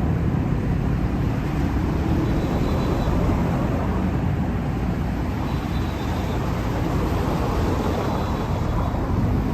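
Steady road-traffic noise, with vehicle engines running.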